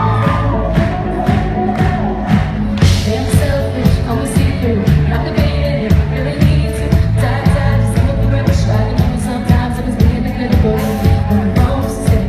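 Live pop band playing with a female lead singer over a steady, even drum beat.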